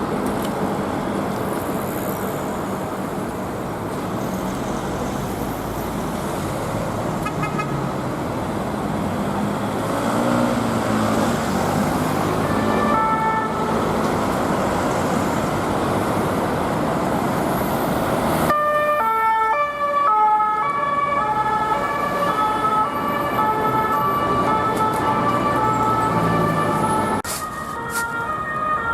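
Police siren of the French two-tone kind, a steady alternation of a high and a low note. It is faint over the noise of road traffic at first, then loud and close from about two-thirds of the way through.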